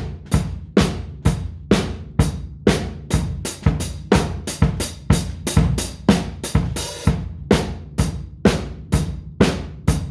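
Drum kit played in a steady groove, kick and snare hits with cymbals, and a longer cymbal crash about seven seconds in.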